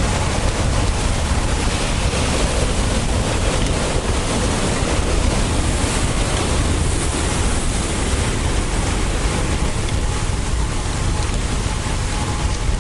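Steady loud wind noise buffeting the camera microphone of a road bike riding at speed.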